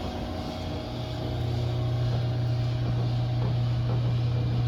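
Steady low motor or engine hum that steps up in level about a second in and then holds steady.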